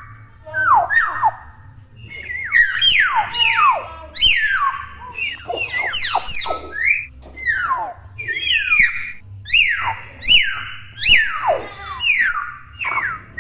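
A young common hill myna calling nonstop: a rapid string of loud whistles that slide sharply down in pitch, mixed with sharp clicks and squawks, one after another.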